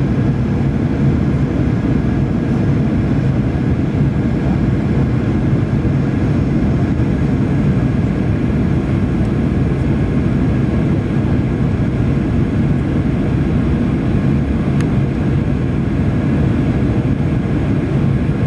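Steady cabin noise of a jet airliner in flight on approach to landing: engine and rushing air sound, a low, even drone that does not change.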